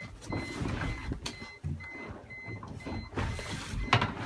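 Short electronic beeps repeating at an even pace, about two a second, over a low rumble, with a few sharp knocks and a louder knock near the end.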